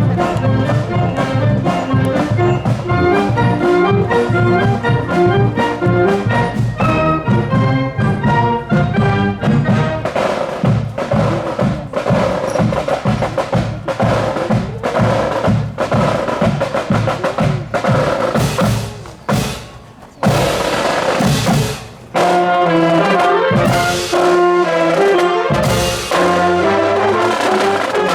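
Marching band playing a parade tune: trumpets and trombones carry the melody over marching drums. About two-thirds through, the brass drops back for a few seconds of drumming with short breaks, then the full band comes back in.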